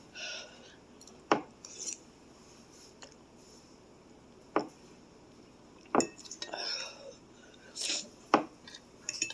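An eating utensil clinking against a dish four times, with soft rustling and mouth noises between the clinks.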